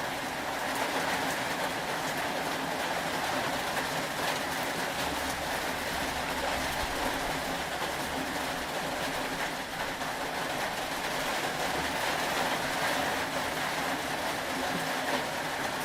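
Steady rain ambience: an even, unbroken hiss with a faint low hum beneath it.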